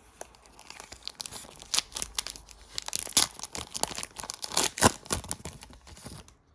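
Plastic wrapper of a trading card pack being torn open and crinkled, a rapid run of crackles that is loudest about halfway through.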